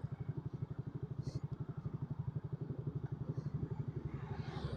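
Suzuki Raider 150's single-cylinder four-stroke engine running at low, steady revs, with an even putter of about a dozen beats a second.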